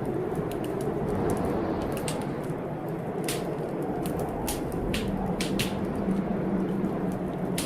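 Wood fire crackling in a fireplace, with irregular sharp pops and snaps over a steady low rush of stormy rain.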